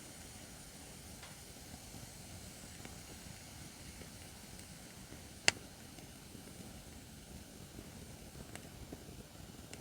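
Acacia firewood burning in a campfire stand: a steady low rumble and hiss with a few faint crackles, and one sharp, loud pop about halfway through.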